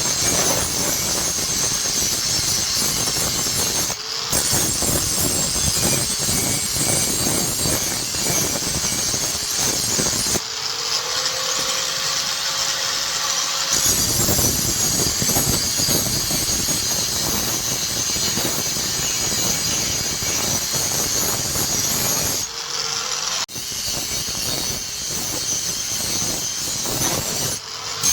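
Electric grinder grinding steel: a continuous rough noise that stops several times as the tool is lifted off the work, leaving the motor's whine rising as it spins up unloaded.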